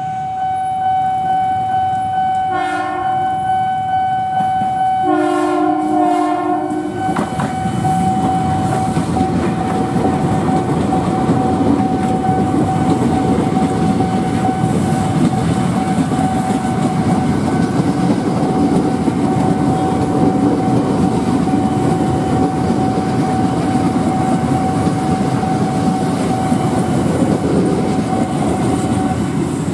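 A level-crossing warning alarm sounds a steady tone. An electric commuter train, an ex-Chiyoda Line 6000 series unit, blows its horn twice, a short blast and then a longer one. The train then passes with a continuous rumble and the clickety-clack of its wheels, and the alarm tone cuts off near the end.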